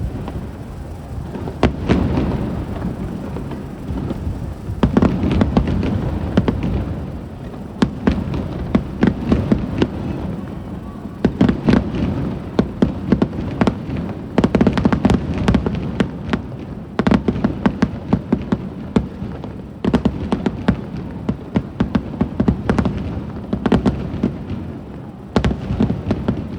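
Aerial fireworks shells bursting in quick succession: deep booms with clusters of sharp, rapid crackling pops.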